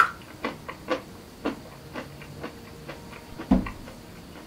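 Someone chewing a single hard, crunchy nut, which she takes for a filbert (hazelnut), with her mouth closed. The crunches come irregularly, a few in each second, and the heaviest comes about three and a half seconds in.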